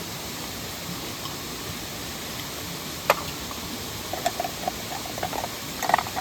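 Steady rushing of a nearby waterfall and mountain stream. About three seconds in comes one sharp knock, then a string of light taps and clinks near the end.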